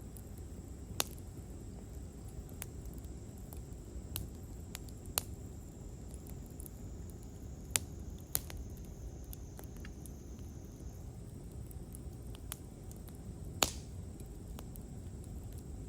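Wood campfire crackling: sharp pops every second or two over a low steady hiss of burning, with the loudest pop near the end.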